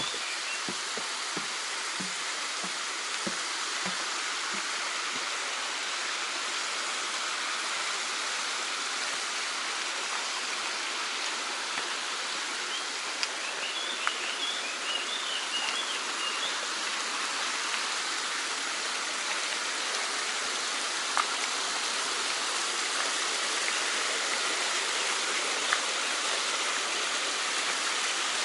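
Mountain stream rushing steadily over rocks, the flow growing slightly louder toward the end. Soft footsteps fall in the first few seconds, and a few faint high chirps come around the middle.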